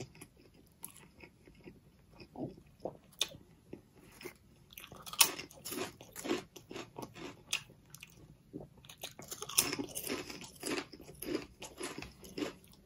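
Close-miked biting and chewing of a double-meat Subway Italian BMT sub, mixed with crisp crunches of ridged potato chips. The crunches come at irregular spacing, loudest about five seconds in and again around ten seconds in.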